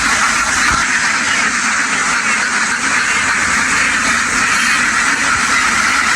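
A large flock of ducks quacking all together, a loud, steady, dense din.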